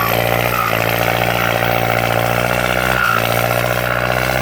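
Kubota M8808 tractor's turbocharged four-cylinder diesel engine running loud and steady, with a high turbo whistle over the engine note. The engine briefly dips about three seconds in.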